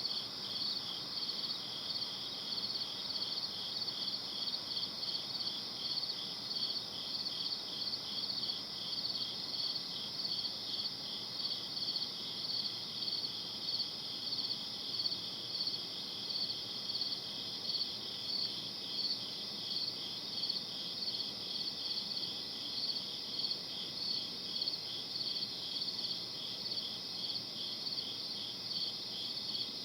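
Crickets chirping in a steady, evenly repeating rhythm, over a faint low background hiss.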